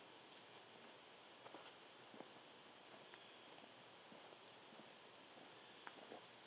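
Near silence: faint outdoor ambience with scattered small clicks and a few brief, high, faint chirps.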